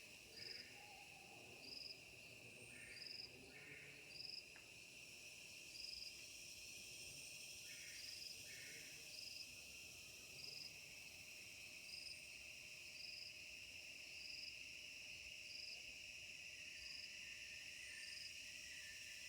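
Faint insect chorus: a steady high chirring, with short, higher chirps repeating about once a second and a few short lower chirps in pairs.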